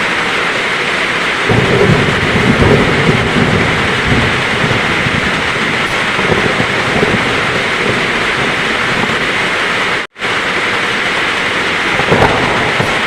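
Heavy rain falling steadily, with thunder rumbling low from about a second and a half in for a few seconds. The sound cuts out sharply for a moment about ten seconds in, a splice in the recording.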